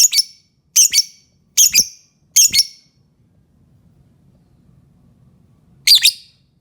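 Lovebird giving short, sharp, high-pitched shrieking calls, four in quick succession about one every 0.8 seconds, then a pause of about three seconds and one more call near the end.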